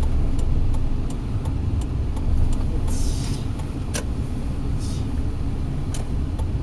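Car cabin rumble while driving: engine and road noise running steadily, with a series of light clicks in the first couple of seconds and a couple of brief hisses later.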